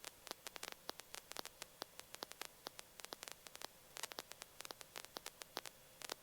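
Faint, irregular crackling static on the radio audio feed, with no one transmitting.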